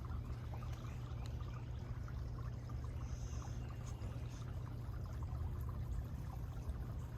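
A small brook trickling and babbling, over a steady low rumble.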